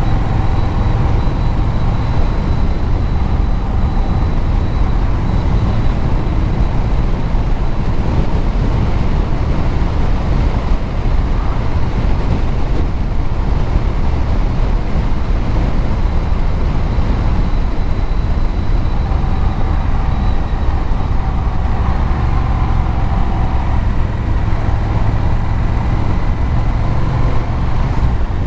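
Vehicle engine and exhaust running at a steady cruise, with road noise underneath, holding an even level throughout.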